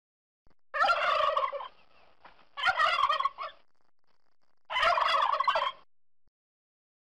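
Turkey tom gobbling three times, each gobble a rapid rattling call about a second long, with short pauses between.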